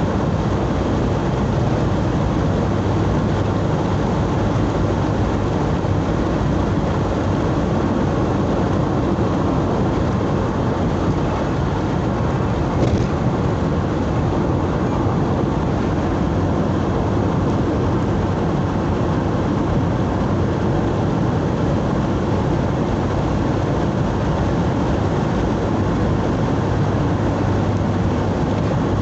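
Steady engine and tyre noise of a vehicle driving along a road, with a low hum and one short click about thirteen seconds in.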